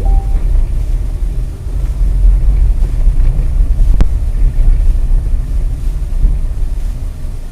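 Steady low rumble of a car driving, as picked up by a dash cam's microphone, with one sharp click about four seconds in.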